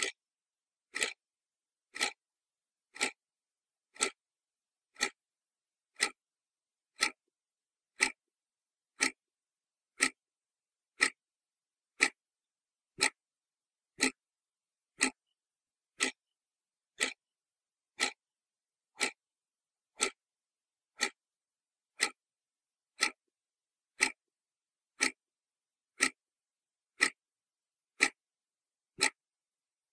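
Clock ticking steadily, one crisp tick each second, with silence between the ticks.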